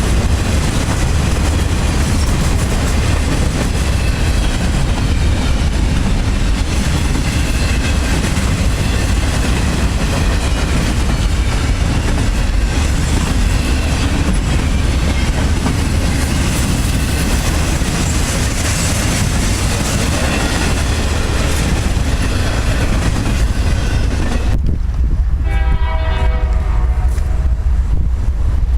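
Train passing close by, a steady heavy rumble and rail noise with wind on the microphone. Near the end the sound changes abruptly and a train horn sounds for a few seconds.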